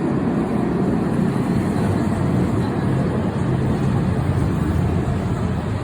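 KVB K4000 low-floor tram running, a steady low rumble.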